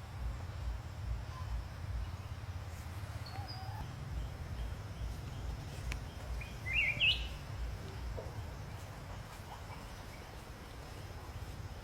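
A few short bird chirps, the loudest cluster about seven seconds in, over a low uneven rumble.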